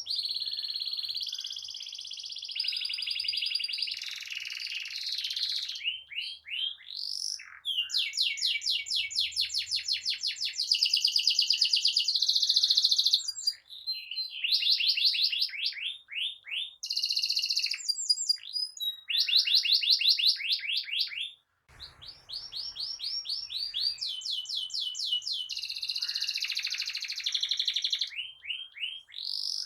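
Domestic canary singing a long, chattering rolling song: high trills and fast runs of repeated notes, broken by brief pauses, with one clear gap about two-thirds of the way through.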